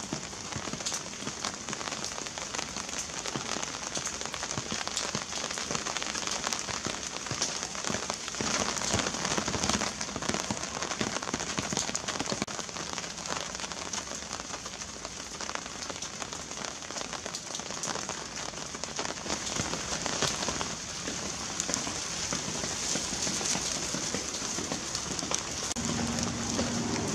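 Steady heavy rain falling on plants, with many separate drops ticking close by; it grows heavier for a while twice.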